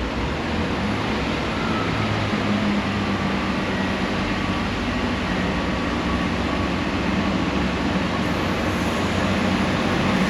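Train approaching: a steady rumble with a low hum that grows slowly louder.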